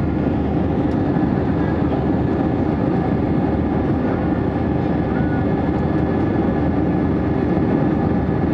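Steady cabin noise of an Airbus A320 in flight: a dense, even drone of engines and airflow, with a few faint steady tones above it.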